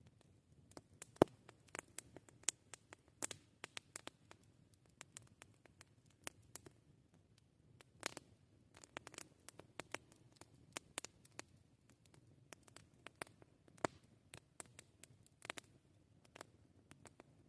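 Wood campfire crackling: irregular sharp pops and snaps, several a second, the loudest about a second in, over a faint low background noise.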